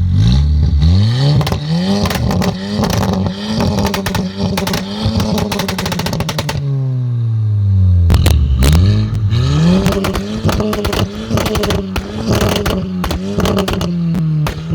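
Remapped Mk5 Volkswagen Golf GTI's 2.0-litre turbo four-cylinder engine revving up twice, each time with a rapid string of exhaust pops and crackles, the pops-and-bangs coded into its map. The revs fall away in between and again at the end. It is very loud.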